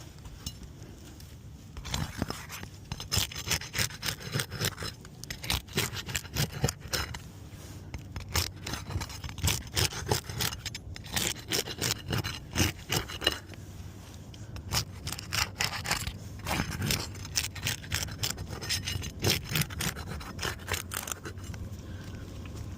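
A tool scraping and prying at asphalt roof shingles, many short irregular strokes with brief pauses, as a failed shingle repair is worked loose.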